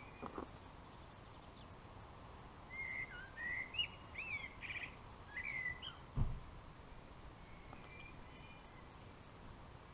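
A songbird singing a short phrase of quick, curving chirps, starting about three seconds in and lasting about three seconds. A single dull thump comes just after the song.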